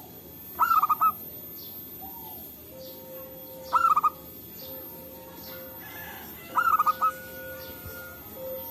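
Zebra dove singing its quick, stuttering cooing phrase three times, about three seconds apart. Fainter, lower calls from another dove answer between the phrases, over a faint steady tone.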